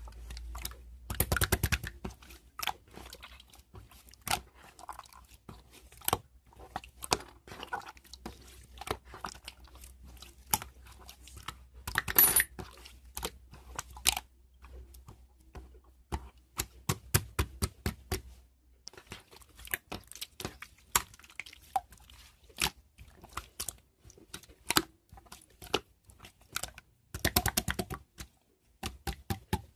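Close, crisp crunching of a person chewing something crunchy: a dense run of sharp crackles, with heavier bursts about a second in, around twelve seconds, around seventeen seconds and near the end.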